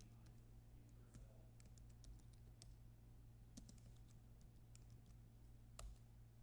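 Faint, irregular clicking of typing on a computer keyboard, with one sharper click near the end, over a low steady electrical hum.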